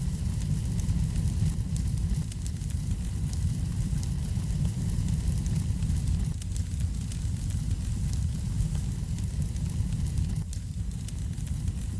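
Fire burning in a fireplace, crackling with many small sharp pops over a steady low rumble.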